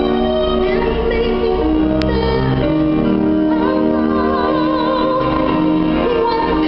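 Live music: a woman's voice singing long held notes with vibrato over sustained keyboard backing.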